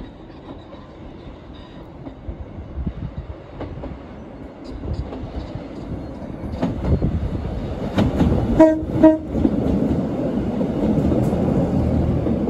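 Network Rail Class 950 track-assessment diesel unit approaching and passing close by. Its engine and wheel noise grow louder, and it sounds two short horn blasts about two-thirds of the way through.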